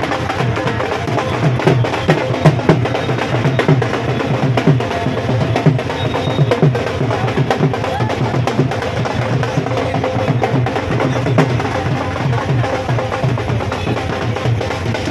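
Devotional kirtan music: fast, steady drum beats with clacking hand percussion.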